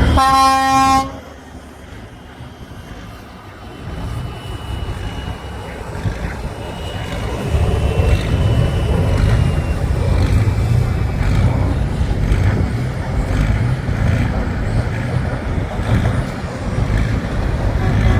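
A horn sounds once for about a second, then a heavy truck engine rumbles, growing louder from about four seconds in and running on.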